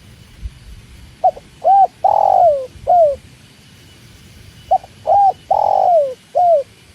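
Spotted dove cooing: two song phrases about three and a half seconds apart, each of four coos, with the third coo the longest and loudest and falling in pitch at its end.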